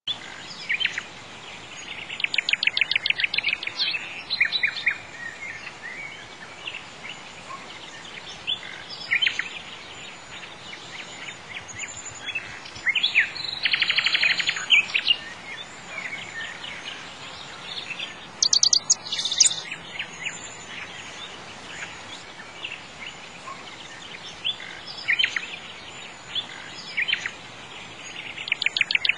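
Birds singing: quick trills and repeated chirps coming in spells, over a steady faint hiss.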